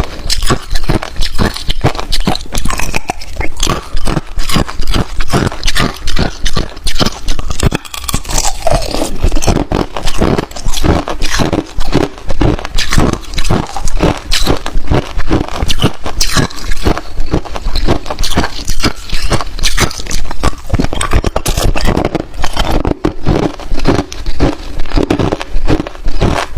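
Hard clear ice being bitten and chewed, a loud run of rapid crunches that goes on without a pause.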